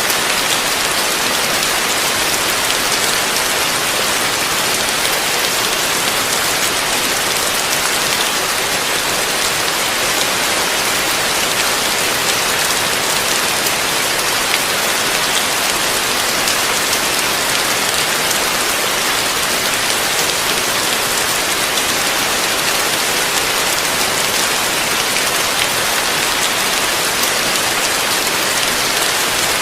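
Heavy rain falling steadily, a dense even hiss of drops on a surface with no breaks or thunder.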